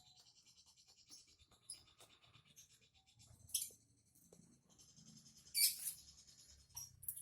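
Faint, high, scratchy sounds from a small cage bird: a fast ticking rattle, then two short sharp bursts about two seconds apart.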